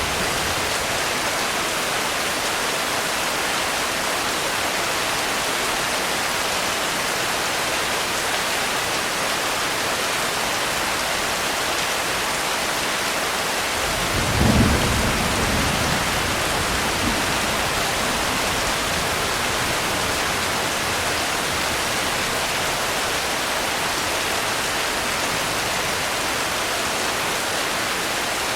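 Steady rain falling, an even hiss, with a short low rumble of thunder about halfway through.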